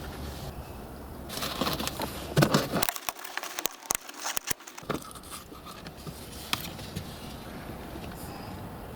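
Scraping, crackling and sharp clicks of plastic car interior trim being worked loose and handled, busiest from about one to five seconds in.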